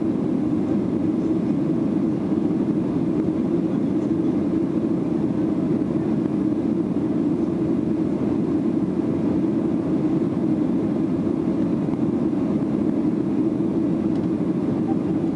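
Steady engine and airflow noise heard inside a Boeing 737-800 with CFM56 turbofans, climbing after takeoff. It is an even, low rush that does not change.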